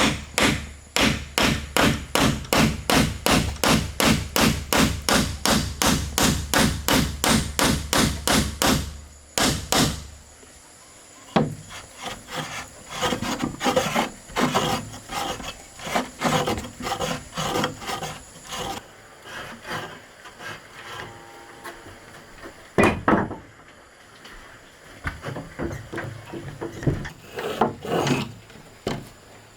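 Hand tools working wood: a fast, even run of sharp strokes on wood, about four a second, for the first nine seconds or so. After that come slower, softer rubbing and scraping sounds and a few single knocks.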